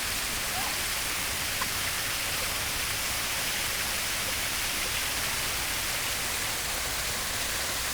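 Steady rush of falling water, as from a waterfall.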